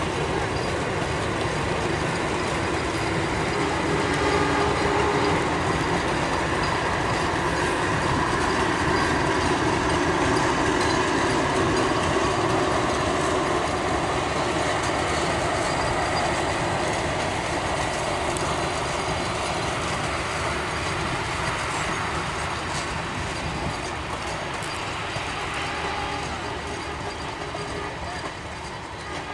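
Passenger train coaches rolling past on the track: a steady rumble and rattle of wheels on rails. It grows a little louder in the first few seconds, then slowly fades over the last few seconds as the train moves away.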